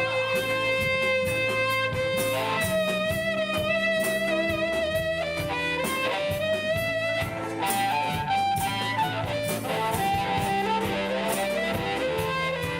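Live band playing an instrumental passage: a lead instrument holds long, wavering notes, then runs down through stepped notes, over guitar and a steady drum beat.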